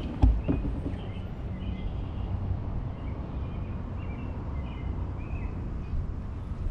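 Small birds chirping, with short repeated calls over a steady low rumble. A single sharp knock comes just after the start.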